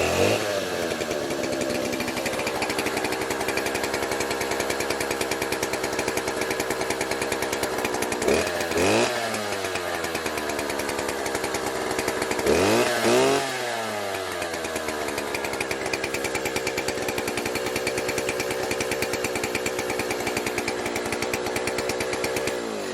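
Knockoff Stihl two-stroke chainsaw running just after its first start. It is loud. It drops back to idle in the first second and then idles steadily, and it is revved up briefly twice, about a third of the way in and again a few seconds later.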